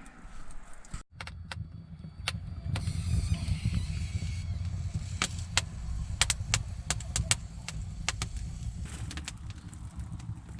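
Wood fire burning in a clay stove-fireplace: a steady low rumble with irregular sharp crackles and pops. The sound briefly drops out about a second in.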